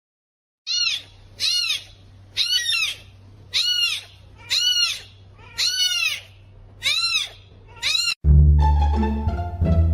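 A kitten mewing: eight short, high calls about a second apart, each rising and falling in pitch. Near the end, plucked-string background music starts suddenly.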